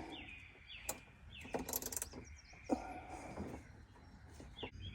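A few quick clicks from a 3/8-inch ratchet working the oil pan drain plug loose, with small birds giving short falling chirps again and again.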